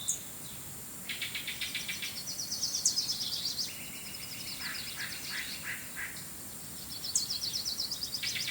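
Small birds singing rapid trills of quickly repeated notes, several overlapping, over a faint steady background hiss; one trill starts about a second in and another comes near the end.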